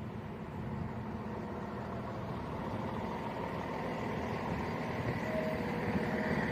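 Cross Country Class 170 Turbostar diesel multiple unit's underfloor engines running steadily, a low throbbing hum with faint high whines above it, growing slightly louder.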